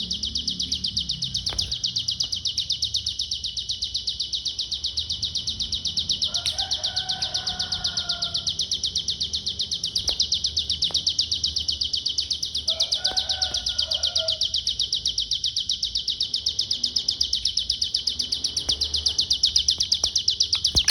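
Ciblek gunung (a prinia) singing a nonstop rapid trill, the 'konslet' style that bird keepers prize, pulsing several times a second. Two short lower whistled phrases come in about six and thirteen seconds in.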